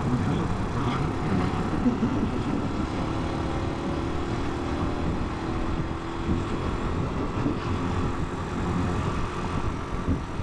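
Italika 250 motorcycle engine running while riding through traffic, with a steady low rumble and wind noise on the camera microphone.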